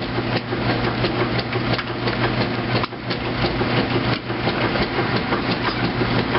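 2008 Kenmore top-load washing machine agitating on its heavy duty cycle: a steady motor hum under a fast, continuous clatter from the agitator and water, with a brief dip about three seconds in and again about four seconds in.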